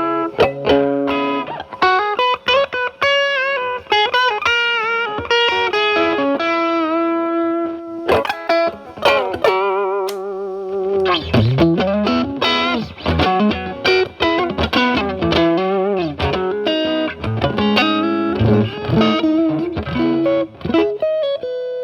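Fender Stratocaster with single-coil pickups played through a Paul Cochrane Timmy overdrive into a Marshall Valvestate amp's clean channel, the pedal at maximum gain with the guitar's volume rolled back to clean up the tone. Single-note lead lines with string bends and vibrato, ending on a held note.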